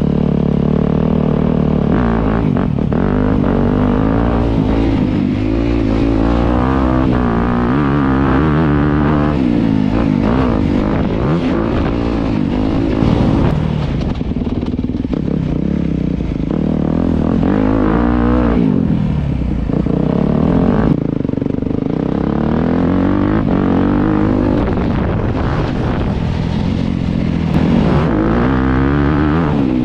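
Honda dirt bike engine being ridden hard, revving up and dropping back many times as the throttle is worked and gears change.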